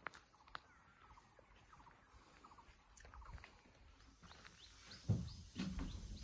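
Faint outdoor birdsong: scattered short calls and quick falling chirps. About five seconds in there is a sudden thump, followed by a brief voice.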